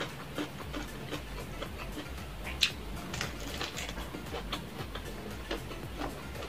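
Close-up chewing and biting into crisp-breaded fried chicken: a run of irregular crunches and wet mouth clicks, the sharpest about two and a half seconds in, over a low steady hum.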